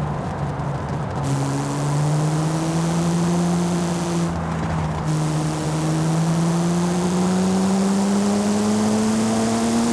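Porsche Speedster's flat-six engine under way, its note climbing slowly and steadily from about a second in as the car gathers speed, over a hiss of wind and road noise.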